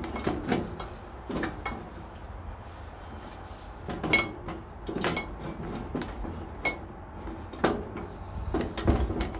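Scattered metal clinks and knocks, about ten at irregular intervals, some with a brief ringing, as bandsaw riser-block parts and bolts are handled and fitted.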